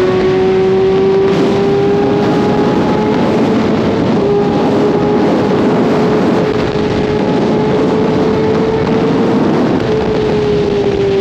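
Kawasaki ZX6R inline-four engine held at high revs while riding, its pitch creeping slowly up and then easing down near the end as the throttle comes off. Heavy wind rush on the microphone runs under it.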